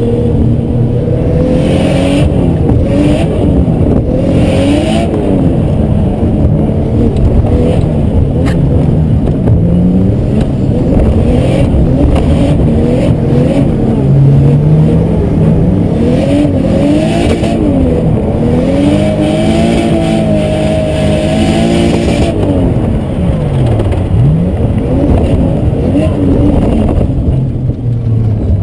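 Nissan Skyline R32's turbocharged RB25DET straight-six heard from inside the cabin while drifting, revs rising and falling again and again as the throttle is worked, with spells of hiss. Near the end the revs drop sharply, pick back up, then settle to a lower, steadier note.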